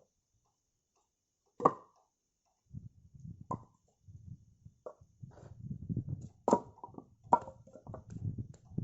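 Firewood being chopped: four sharp strikes on wood, with lower knocking and clattering of wood pieces in between during the second half.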